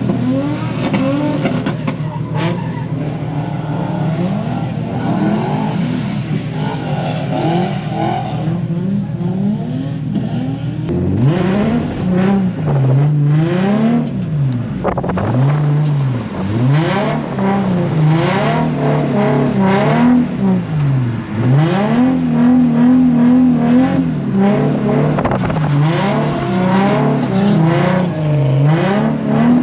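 Drift car's engine, held at a fairly steady pitch at first, then revving up and down over and over from about a third of the way in as the throttle is worked through a drift.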